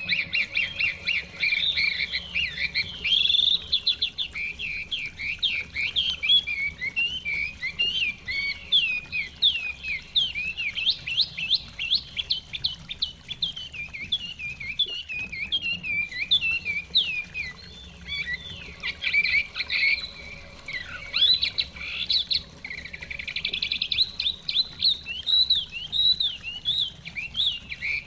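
Chinese hwamei singing a long, fast, unbroken run of varied chirping and sweeping whistled notes, over the faint, even rush of a flowing stream.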